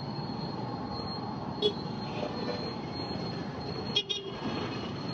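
Steady street traffic noise with two short vehicle horn toots, one about one and a half seconds in and another near four seconds.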